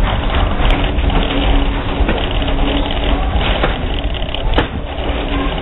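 Passenger railroad coach rolling slowly along the track: a steady rumble of wheels on the rails under a faint hum, with two sharp clicks.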